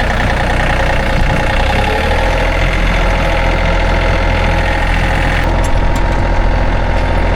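Tractor engine running steadily close by; about two seconds in its speed rises a little, then holds.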